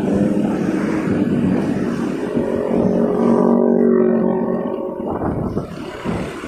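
Motorcycle engine running while riding in traffic. About halfway through, a steady engine tone stands out for a couple of seconds, then fades.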